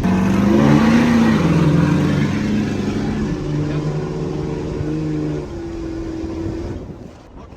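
Diesel pickup trucks, one a 4th Gen Cummins, launching in a drag race, their engines revving hard and stepping up and down in pitch as they run through the gears. The sound is loudest at the launch and fades away over the last couple of seconds.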